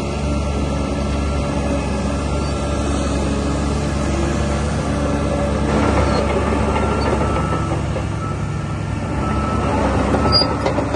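DH17 C2 LGP crawler bulldozer's diesel engine running steadily under work, with rougher, noisier stretches about halfway through and again near the end.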